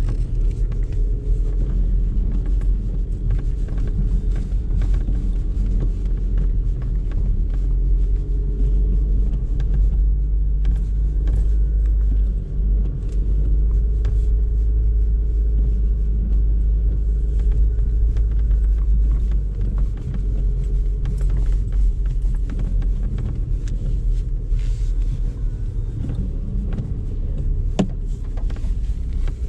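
Audi A3 driving along, a steady low rumble of road and engine noise, with a few faint scattered clicks.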